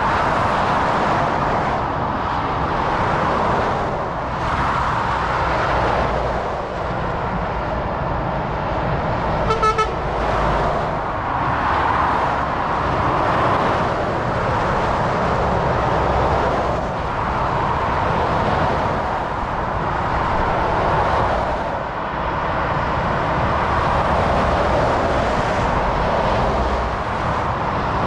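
Steady motorway traffic, heavy lorries and cars rushing past in overlapping swells of tyre and engine noise. About ten seconds in, a vehicle's horn gives a short double toot.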